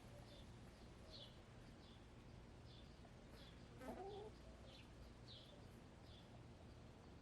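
A hen gives a short clucking call about four seconds in, the loudest sound, over a wild bird's steady series of short high chirps. All of it faint.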